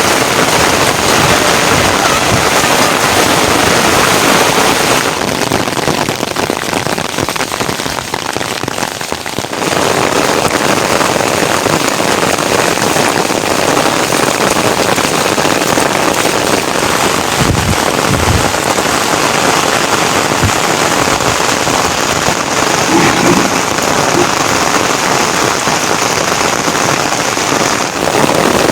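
Steady rain falling, an even hiss that eases for a few seconds before coming back to full strength, with a couple of low thuds about two-thirds of the way through.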